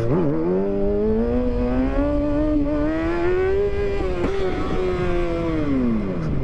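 Motorcycle engine accelerating under throttle, its pitch climbing steadily for about three and a half seconds, holding briefly, then dropping away near the end as the throttle closes, with low wind rumble underneath.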